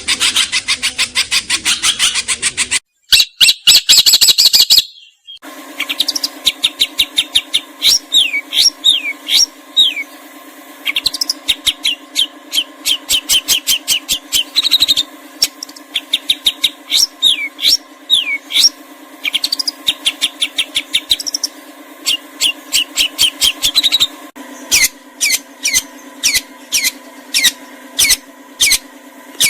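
Several cage-bird song recordings cut together. A dense, rapid chattering song gives way about three seconds in to a short, loud burst. Then comes a long stretch of quick repeated chirps and trills over a steady low hum, and near the end single sharp chirps about one a second.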